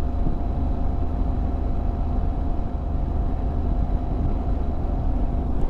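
Motorcycle on the move: wind buffeting the rider's microphone in a heavy, fluttering rumble over the steady drone of the bike.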